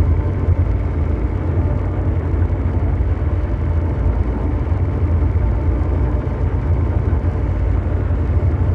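Ambient mechanical drone noise: a steady, deep brown-noise rumble like a huge engine running, holding even and unchanging throughout.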